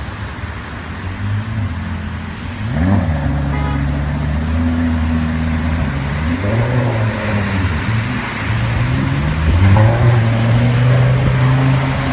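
Car engine running and revving, its pitch climbing and dropping back several times, louder about three seconds in and again near ten seconds.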